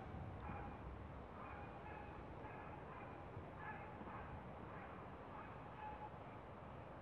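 Birds calling: short chirping calls, repeated many times, over a low rumble.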